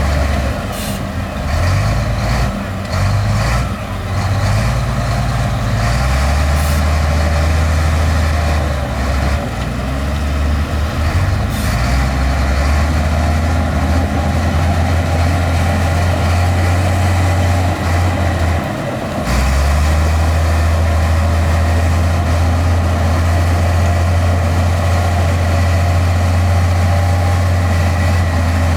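Heavy diesel earthmoving machinery running, a bulldozer and dump trucks working dirt, with a deep engine drone that becomes louder and steadier about two-thirds of the way through. A few brief sharp sounds come in the first half.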